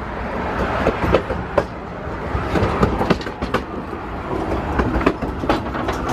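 Napa Valley Wine Train passenger car running along the track: a steady low rumble with irregular clicks and knocks.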